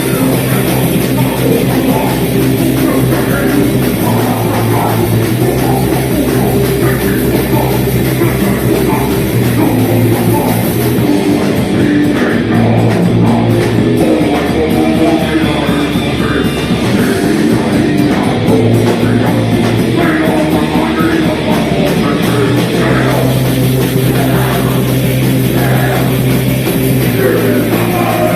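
Live death metal band playing loud and without a break: distorted electric guitars, bass and drum kit, with vocals coming in at times.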